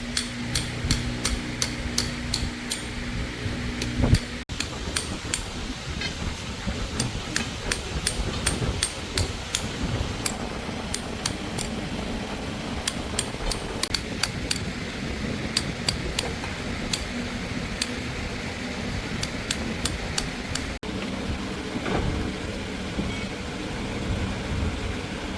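Metal tool work: many sharp light taps and clicks, irregular and spread throughout, over a steady background hum.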